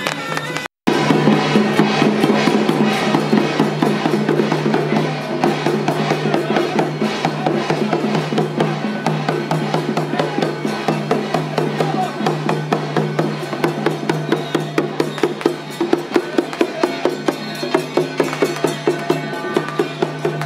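Loud festival music of fast, dense drumming and percussion over a steady low drone. The sound cuts out completely for a moment just under a second in.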